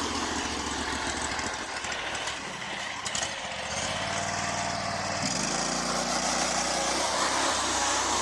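Predator 670 V-twin engine in a small homemade truck, running low at first, then revving up about five seconds in as the truck is pulled away hard in a wheelie attempt.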